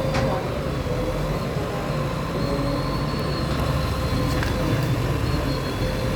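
A bulldozer's diesel engine runs steadily with a low rumble, and a couple of sharp knocks can be heard over it.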